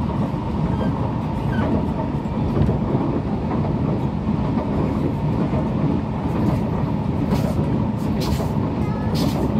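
Singapore MRT train running, heard from inside the carriage: a steady rumble with a faint steady whine, and a few sharp clicks near the end.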